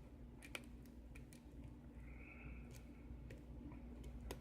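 Faint, scattered small metallic clicks of a lock pick working the pins inside a worn brass Ruko r501 padlock as they are lifted and set, about half a dozen over a few seconds, over a low steady hum.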